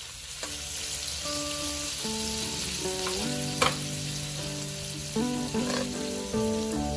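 Shrimp sizzling steadily in hot oil in a wok, with a sharp click a little past halfway. Plucked-string background music plays over it.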